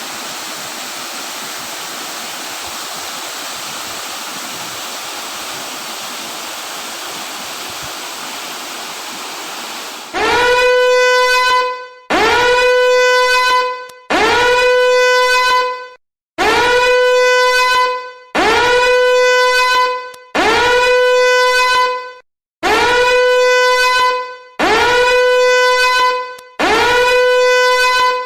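A waterfall rushing steadily. About ten seconds in it gives way to a loud, repeating horn-like tone: nine identical blasts, each swooping up to a steady pitch and held for just under two seconds, one about every two seconds.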